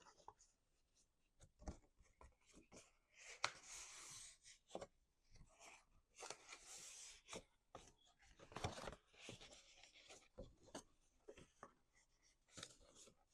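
Cardstock being folded along its score lines and creased flat: faint, scattered paper rustles, rubs and light clicks.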